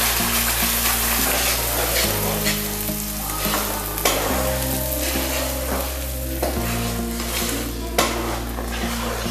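Food frying and sizzling in a pan of butter while it is stirred with a spoon, with a couple of sharp scrapes or knocks of the spoon against the pan.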